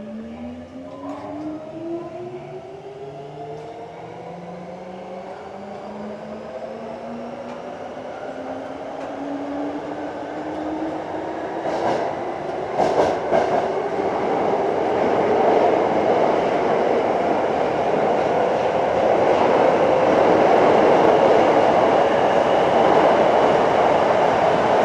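Hankyu 7300 series electric train, field-chopper-controlled, accelerating away from a stop as heard inside the car. Its motor and gear whine rises steadily in pitch and grows louder as speed builds. A few sharp clicks come from the wheels over rail joints about twelve seconds in.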